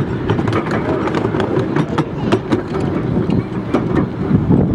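Miniature railway train running: a steady low rumble of wheels on track, with frequent irregular sharp clicks.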